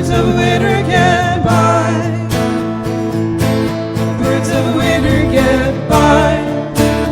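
Instrumental break in an Americana folk-rock song: strummed acoustic guitar and bass under a wavering melodic lead line, with no words sung.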